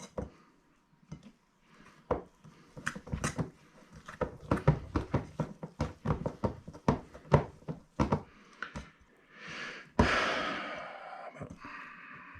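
Thick egg-white and icing-sugar meringue mixture being hand-beaten in a bowl: an uneven run of clicks and taps of the utensil against the bowl. About ten seconds in, a sudden rushing noise starts and fades into a faint hiss.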